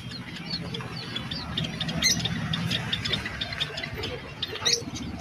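Many small cage birds chirping at once, with two louder, sharper squeals, one about two seconds in and one near the end, over a steady low rumble.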